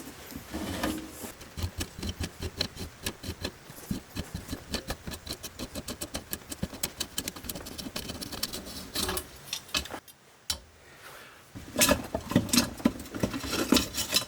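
Rapid metallic clicking, several clicks a second, for most of the first nine seconds, as hand tools work the old turbine governor's metal parts. After a short pause there is a burst of louder knocks and clatter of metal parts.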